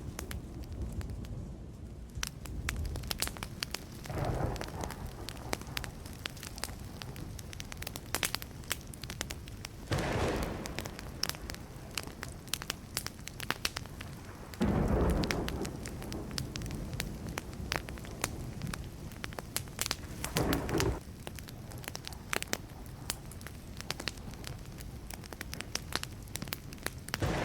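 Burning wood fire crackling with a constant scatter of sharp pops, broken four times by a short louder surge of noise lasting about a second, the strongest about halfway through.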